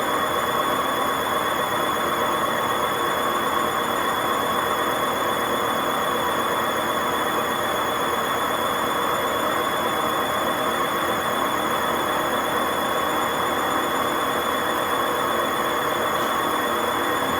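Hotpoint WMA50 washing machine's drum spinning at a steady high speed without its ballast, with a loud, steady, high-pitched whine and squeal from badly worn drum bearings.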